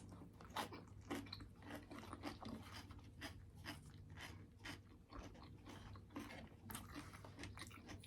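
Close-up chewing with many small, sharp crunches in quick succession, over a faint steady low hum.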